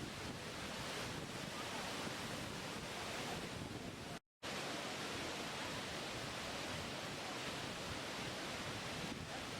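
Steady rushing water, an even hiss with no distinct events. It cuts out completely for a moment about four seconds in, then resumes.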